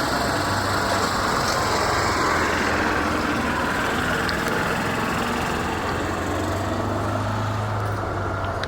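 An engine running steadily, with a low hum under a continuous rumble.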